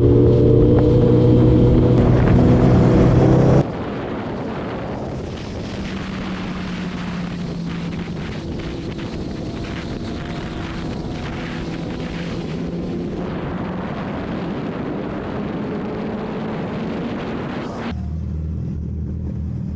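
Superbike engines running at speed on the highway. For the first few seconds the sound is very loud with a steady pitch. It then changes suddenly to a quieter mix of engine and wind-and-road noise, with another abrupt change near the end.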